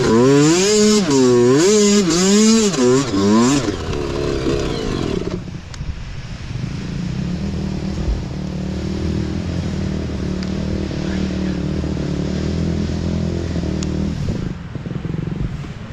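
Mini bike engine revving up and down in quick surges for about four seconds, then settling into a steady, lower, quieter running note.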